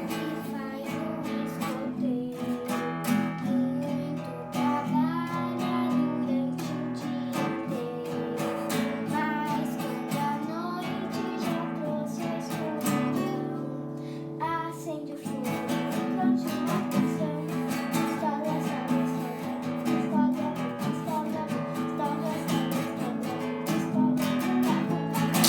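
Acoustic guitar strummed in a steady rhythm, accompanying a girl's singing voice in a scout campfire song. The playing stops suddenly at the end.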